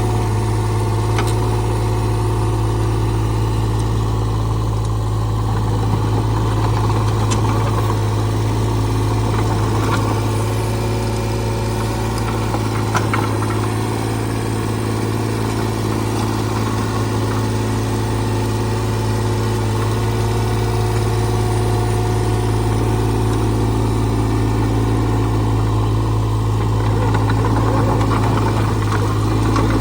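Caterpillar 303CR compact excavator's diesel engine running steadily at idle during a burn test, with a few faint clicks over the hum.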